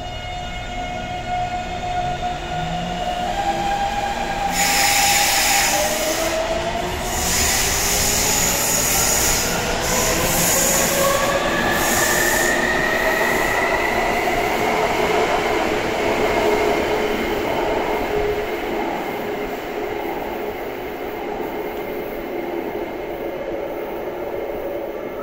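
Taipei Metro Bannan Line train accelerating: the electric traction motors whine in several tones that rise together for about fifteen seconds, then hold steady over the rumble of wheels on rail. Bursts of hissing come in a few seconds in.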